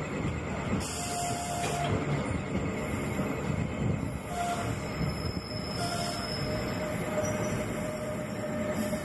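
NJ Transit multilevel passenger coaches rolling past along the platform, their wheels and running gear giving a steady rumble. A thin steady squeal comes in briefly a few times, then holds from about two-thirds of the way through as the train slows for the station.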